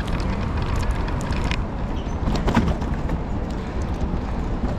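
Steady city street noise: a low rumble of traffic, with scattered clicks and knocks and a brief louder sound about halfway through.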